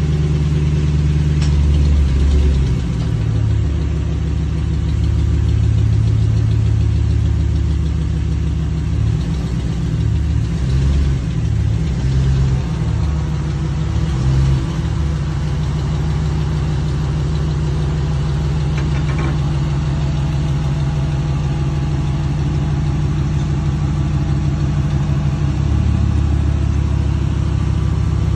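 Ram 1500's 5.7-litre HEMI V8 idling just after an oil change, run for a few minutes to circulate the fresh oil through the engine. Its low note wavers for the first fifteen seconds or so, then settles steady.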